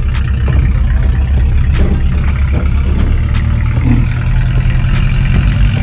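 Chevrolet 305 small-block V8 running through a homemade exhaust made with sheet-metal screws, a steady deep rumble.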